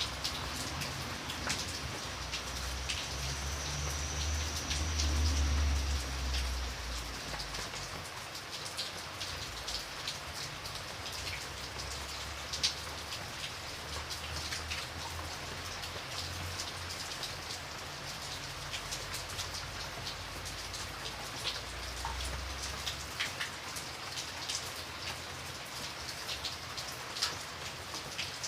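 Steady rainfall with many individual drops ticking sharply against a surface. A low rumble swells a few seconds in and again near the end.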